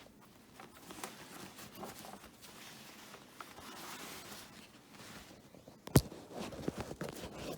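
Faint rustling and handling of the vacuum cleaner as it is opened to show the collected dirt. A sharp click or snap comes about six seconds in, followed by a few smaller clicks.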